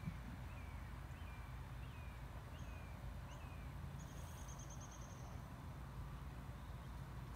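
Songbirds singing: a series of about six short falling whistles, then a fast high trill about four seconds in, over a low steady rumble.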